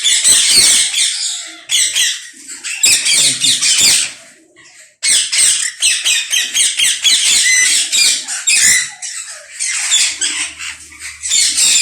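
A colony of ringneck parakeets screeching at once, a dense chorus of shrill overlapping calls, with a brief lull about four seconds in.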